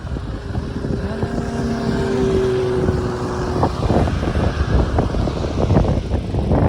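Wind buffeting the microphone and a low rolling rumble while riding a bicycle, with a steady humming tone from about one second in that stops at about three and a half seconds.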